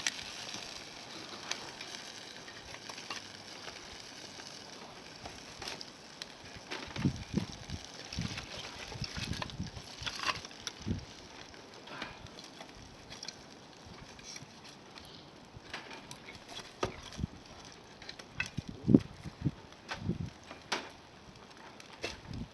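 Wood fire crackling, with scattered sharp pops and snaps over a low hiss, and a few dull low thumps.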